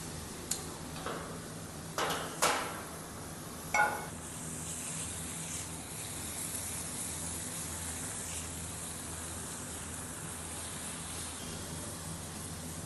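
Chicken breasts sizzling on a hot flat-top griddle, a steady hiss. In the first four seconds there are several sharp clicks and metal clanks, the last of them a ringing clank just before four seconds in.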